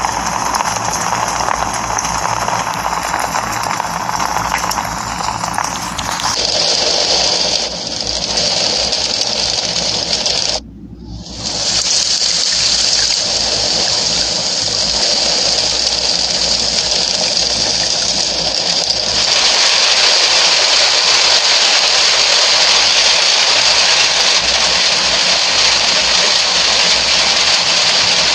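Steady heavy rain, a continuous rushing hiss of water. Its character changes abruptly about six seconds in, drops out for a moment near eleven seconds, and changes again near nineteen seconds.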